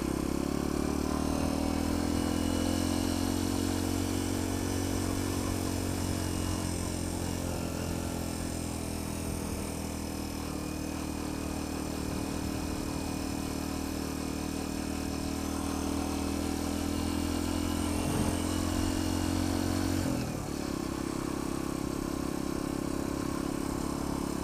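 Sinnis Apache 125 motorcycle engine running steadily at cruising speed, heard from the rider's position with wind noise over it. The engine note dips briefly about 20 seconds in, then carries on.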